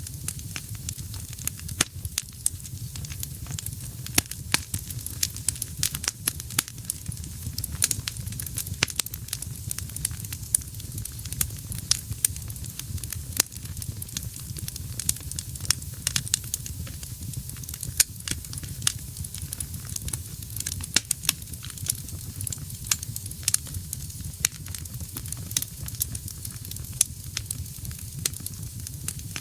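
Wood fire burning in a fireplace: a steady low rumble and hiss of flames with frequent sharp, irregular crackles and pops from the burning logs.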